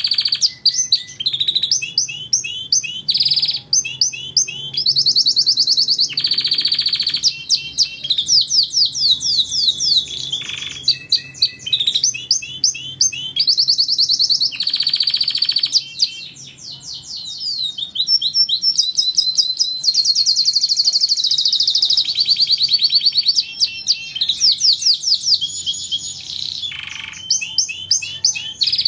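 Domestic canary singing a continuous song of rapid trills and fast repeated chirps, with almost no pause.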